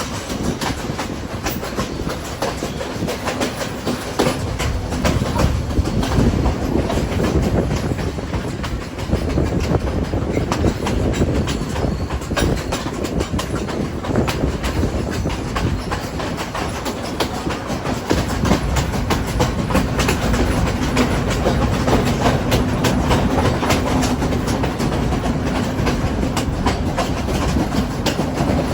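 Train running along the track, its wheels clattering over the rails in a dense run of clicks, with a low steady hum coming in during the second half.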